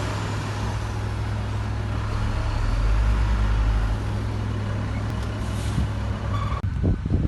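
Heavy diesel construction machinery engine running steadily, swelling deeper for about a second around three seconds in, with a few knocks near the end.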